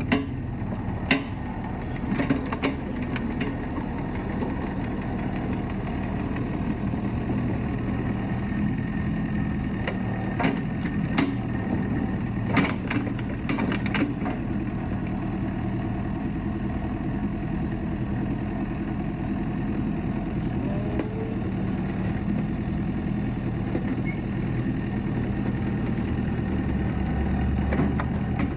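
Kubota KX71-3 mini excavator's diesel engine running steadily, with a few sharp knocks and clanks in the first half.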